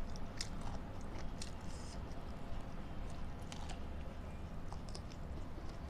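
A person chewing food, with scattered short wet mouth clicks over a steady low hum.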